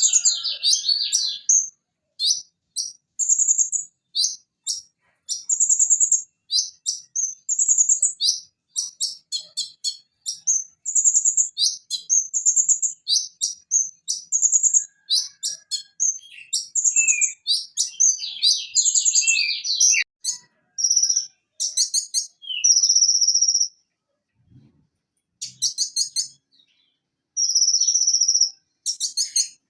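Van Hasselt's sunbird (kolibri ninja) singing: a fast run of very high-pitched chirps and trills in short phrases. There is a brief pause about three-quarters of the way through.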